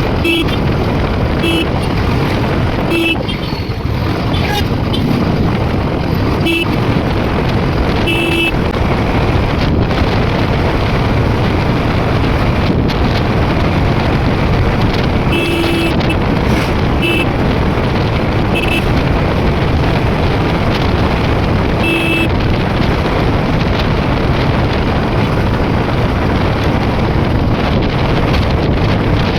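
Motorcycle riding noise, with wind rushing over the microphone and the engine and road underneath. Short horn beeps sound every second or few seconds over the first two-thirds, some in quick pairs, then stop.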